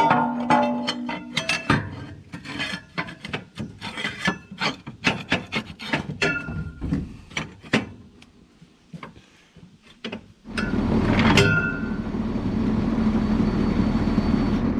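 Hand tools clicking, knocking and scraping on the baler's metal parts during maintenance. About ten seconds in, a steady machine starts running and carries on until it cuts off suddenly.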